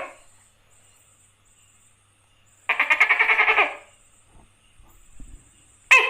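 Tokay gecko calling: a rapid rattling call about a second long a little under halfway in, then two short, sharp calls near the end.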